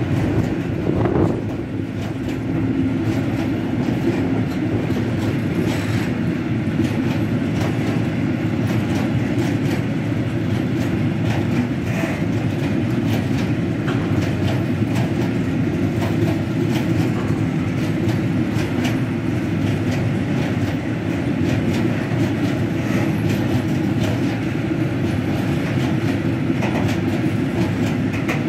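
A long freight train of covered hopper wagons rolling past at a steady speed. The wheels clatter over the rail joints in scattered clicks above a constant rumble.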